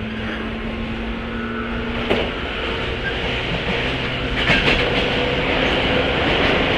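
Running sound inside a 103-series electric train's motor car, with its MT55 traction motors humming under a steady wheel-and-rail rumble. The motor tone steps higher at a sharp knock about two seconds in, and a cluster of wheel clicks over rail joints comes around four and a half seconds.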